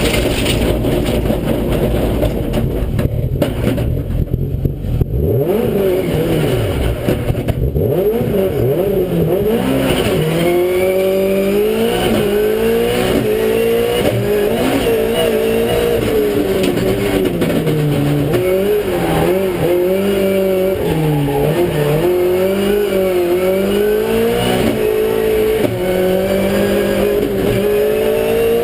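Race car engine being driven hard, its pitch repeatedly climbing and dropping as it revs up and shifts. The first few seconds are mostly a rushing noise; the clear rising and falling engine note comes in after that.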